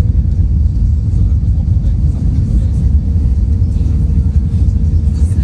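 Airbus A319 cabin noise: a steady low rumble of the engines and airframe heard from inside the passenger cabin, with a faint steady hum over it.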